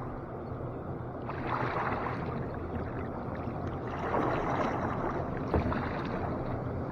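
Water rushing through a lake's concrete drainage structure: a steady rushing noise that grows a little louder about a second in.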